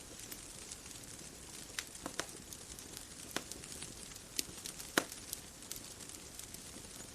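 Wood fire crackling: scattered sharp pops and snaps over a soft steady hiss, with the loudest pop about five seconds in.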